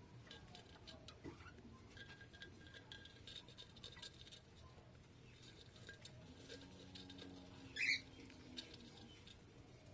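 Budgerigar chick peeping and squeaking faintly amid small rustling clicks, with one sharper, louder chirp about eight seconds in.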